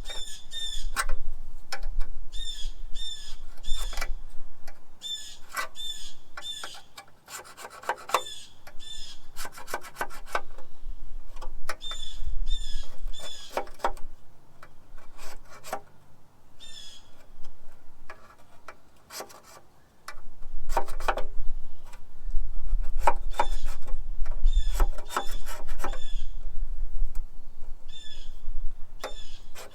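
Hand scraper scraping deposits off an engine block in repeated short strokes, the blade squeaking on the metal.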